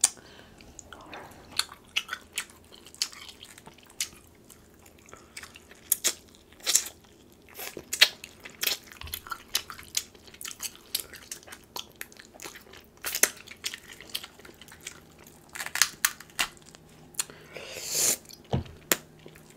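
Close-miked chewing and mouth smacking while eating king crab leg meat dipped in sauce: an irregular run of wet clicks and smacks, with a longer rustling, tearing sound near the end.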